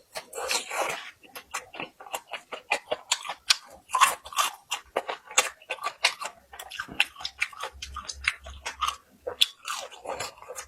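Close-miked, crunchy chewing and biting of crisp deep-fried small yellow croaker: many quick, irregular crunches, several a second.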